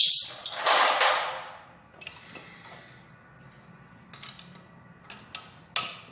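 Metal clanks and knocks from tools and engine parts being handled during engine assembly work. A loud strike at the start rings on for about a second, a few light clicks follow, and another sharp clank comes near the end.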